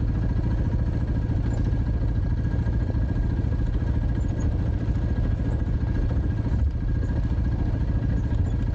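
Dirt bike engine running steadily, an even pulsing with no revving up or down.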